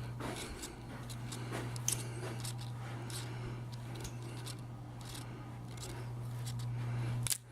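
Faint rustles and light clicks of a handheld camera being carried and handled, over a steady low hum. A sharper click comes near the end, followed by a sudden brief drop in sound.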